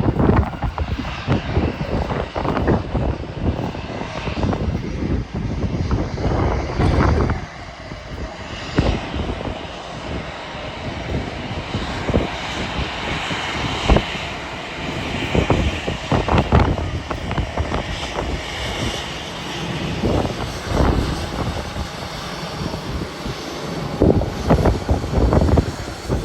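Strong wind buffeting the microphone in irregular gusts, over the rushing of a jet airliner's engines, which swell in the middle.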